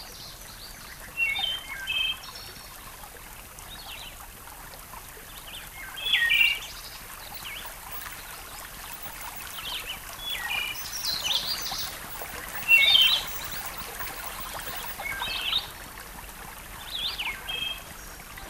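Birds chirping, short quick calls every few seconds, over a steady soft hiss.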